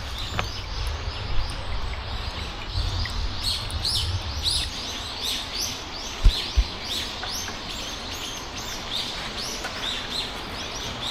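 Small birds chirping: a quick, even run of short, high chirps, about three a second, over a low rumble. Two sharp thumps fall a little past the middle.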